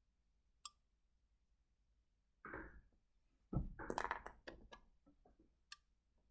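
Small hard objects being handled on a surface: a single click, a brief rustle, then a quick cluster of light clicks and knocks about three and a half seconds in, ending with one more click. These are typical of pieces of rough opal being moved about and tapping against each other and the table.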